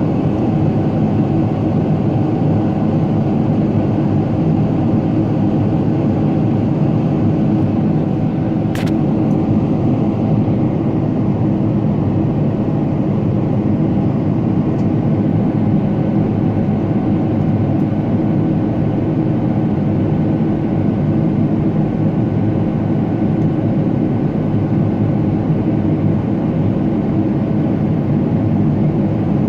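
Steady cabin noise of a Boeing 777-300ER in flight: an even rush of engine and airflow noise with a low, constant hum. A brief sharp click about nine seconds in.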